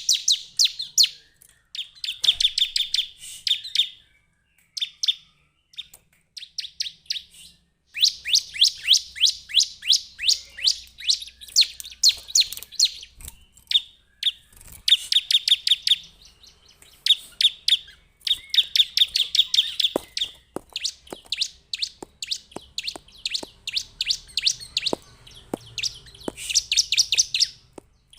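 Bar-winged prinia (ciblek) singing: fast runs of sharp, high chirps, about eight to ten notes a second, in phrases of one to four seconds with short pauses between them.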